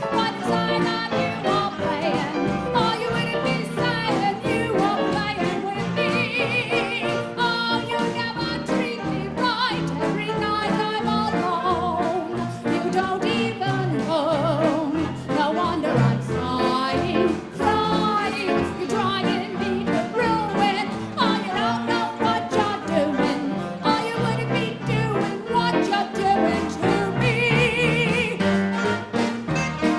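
1930s-style big band dance orchestra playing a tune, with a female vocalist singing with vibrato.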